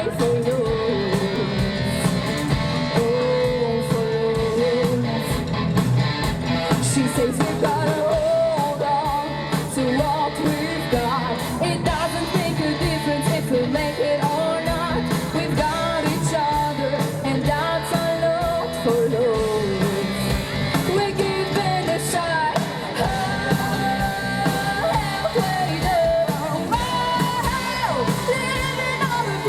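Live rock band playing, with electric guitar and a singer's voice over the music.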